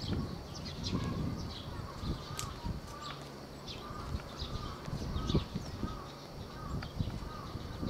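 Birds calling: a short call repeated roughly every half second to second, with scattered brief high chirps, over irregular low thumps.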